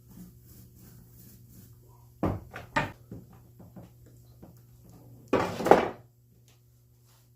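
Two sharp knocks about half a second apart and a few light taps, then a louder clattering scrape lasting under a second, as things are handled against the wooden boat while it is being painted.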